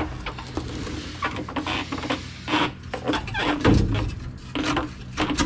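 Irregular knocks, clanks and scraping of hand tools against a steel exhaust pipe as it is worked loose from its hangers.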